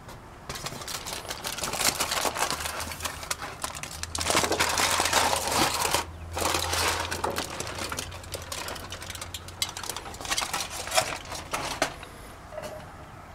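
Taco meat sizzling and crackling in a pan, a dense irregular crackle that swells loudest about four seconds in, dips briefly, then slowly fades.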